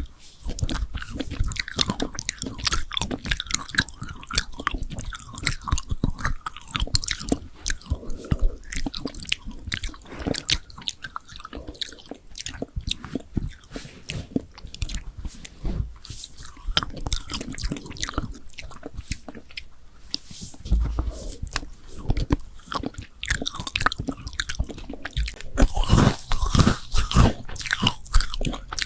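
Close-miked eating sounds: a person biting into and chewing crunchy food, with dense irregular crackling and crunching that grows louder near the end.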